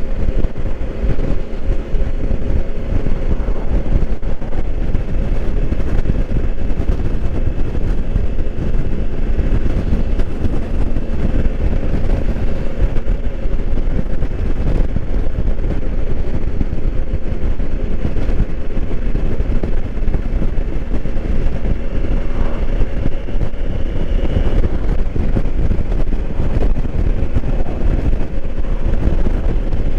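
2020 Honda Africa Twin's 1084 cc parallel-twin engine running at a steady speed on the move, under loud, steady wind and road noise.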